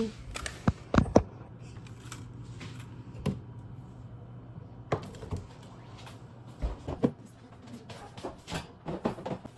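Kitchen handling noises: a handful of sharp knocks and clicks, the loudest about a second in, over a steady low hum.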